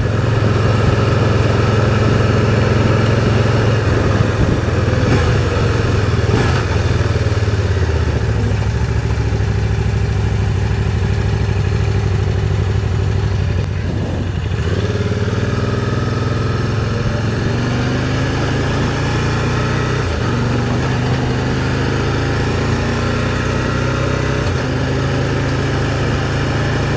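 Can-Am Spyder three-wheeled motorcycle engine running under way, its note rising and falling a few times as it accelerates, with steady wind and road noise.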